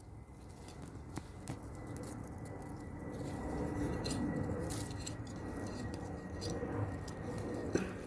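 Soil being dug through around potato plants: a rustling, scraping crackle with scattered small clicks, growing louder over the first few seconds.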